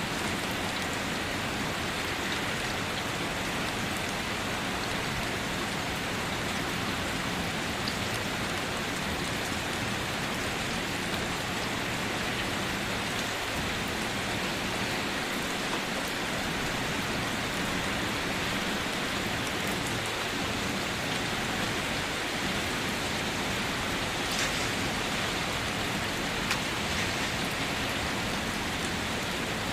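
Steady rain falling on surfaces, an even hiss with a few individual drops ticking now and then.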